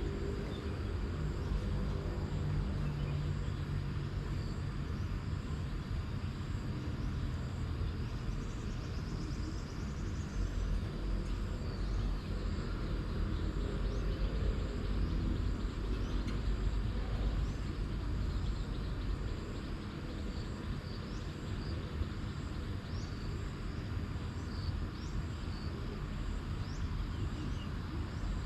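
Outdoor ambience with a steady low rumble and a faint hiss. Faint, short, high chirps come roughly once a second near the end.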